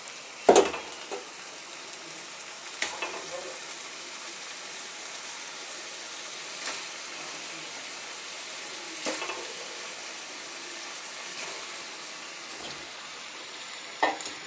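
Spiced onion-and-tomato masala sizzling steadily as it fries in oil in a pan. Five sharp knocks against the pan sound over the sizzle; the loudest comes about half a second in.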